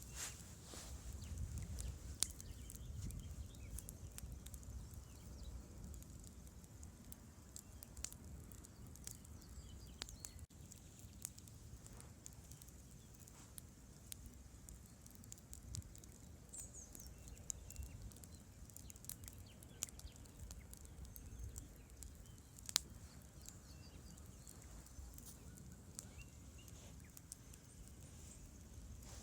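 Campfire crackling: burning wood gives irregular sharp pops and snaps, with one louder pop about three-quarters of the way through, over a faint low steady rumble.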